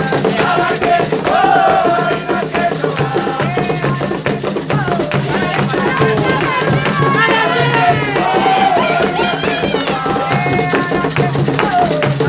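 Sung chant for Sàngó (Xangô): several voices singing together over drums and rattles keeping a steady, fast rhythm.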